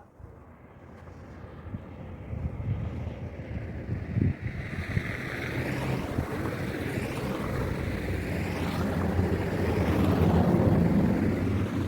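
An engine running with a steady low hum under rushing wind noise on the microphone, fading in and growing louder.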